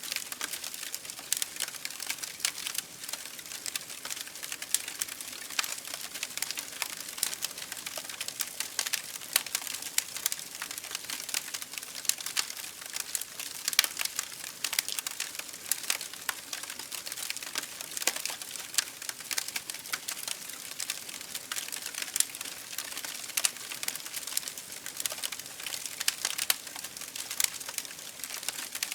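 Campfire burning: wood crackling and popping in quick, irregular clicks over a steady hiss of flames.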